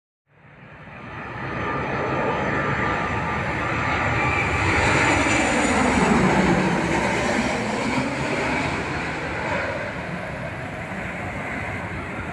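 Jet airliner passing low overhead on its landing approach, its engine roar swelling to a peak about six seconds in and then easing off.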